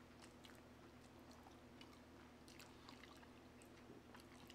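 Faint chewing of a chicken wing: soft, scattered mouth clicks and smacks over a low steady hum.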